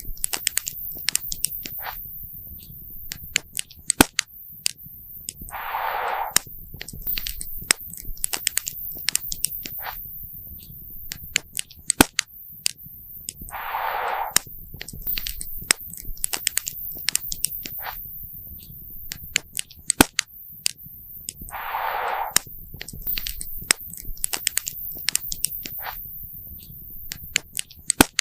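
Wood campfire crackling, with dense sharp pops and snaps over a low rumble. About every eight seconds a soft hiss swells for about a second and fades.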